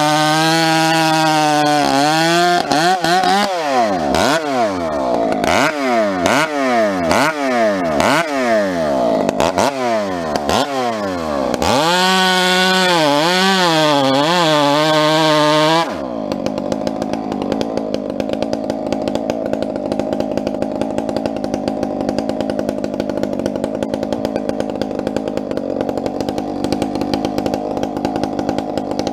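Two-stroke chainsaw running at high revs. Its pitch repeatedly drops and recovers about once a second, then steadies. About two-thirds of the way in, the sound cuts abruptly to a lower, steady running note.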